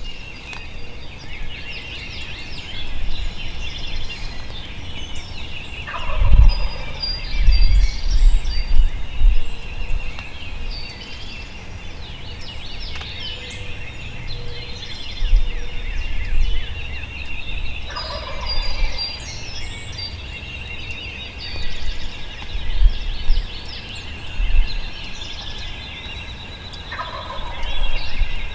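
Wild turkey gobbling three times: about six seconds in, again about twelve seconds later, and near the end. The gobbles sound over a constant chorus of songbirds.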